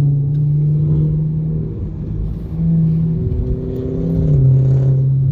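Dodge Charger engine droning steadily while driving, heard from inside the cabin, its pitch changing a couple of times as the throttle eases and picks up.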